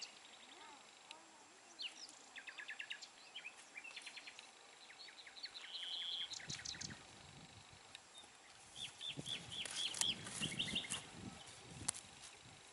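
Small songbirds singing: repeated runs of quick, high chirps and trills, busiest about two to four seconds in and again around nine to eleven seconds.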